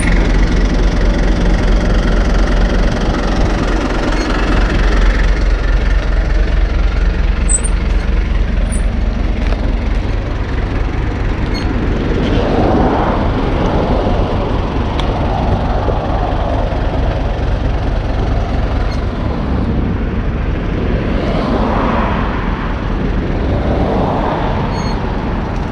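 A vehicle engine idling with a steady low hum, while road traffic passes on a main road: vehicles sweep by about halfway through and again near the end.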